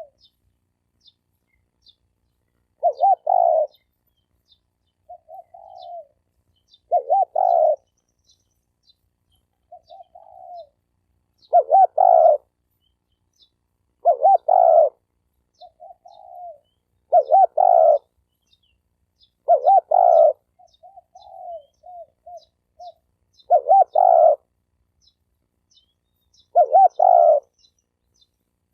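Spotted dove cooing: a loud coo phrase repeated about every two to four seconds, with softer, shorter coos between some of them. This is the kind of cooing that is played as a decoy to draw wild doves in. Faint high chirps from small birds sound throughout.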